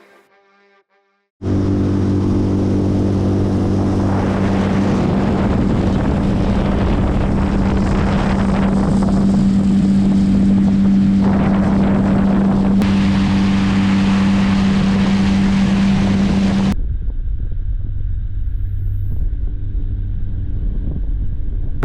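Small boat's outboard motor running steadily underway, with heavy wind noise on the microphone. About a second in, the sound starts abruptly after a short music tail; near the end it cuts to a duller, muffled take of the motor.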